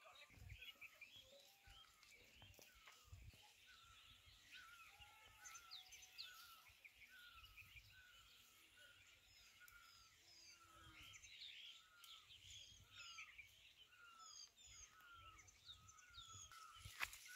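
Faint birdsong: one bird repeats a short note about every half second, with other birds chirping higher over it.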